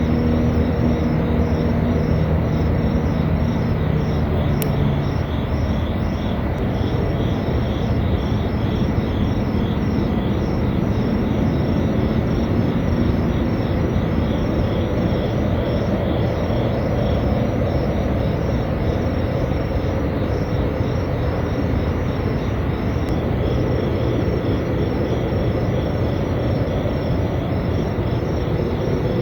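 Loud, steady low rumbling noise of unknown source, the mystery noise that residents reported, with a low hum fading out about four seconds in. A rhythmic high chirping pulses above it throughout.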